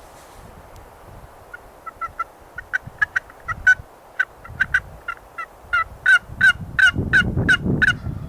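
Turkey calling: a run of short, sharp clucking notes, about two to three a second, starting about one and a half seconds in and growing steadily louder.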